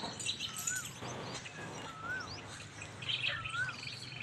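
Birds calling. One bird gives a short whistle that rises and falls, three times about a second and a half apart, over fainter scattered chirps.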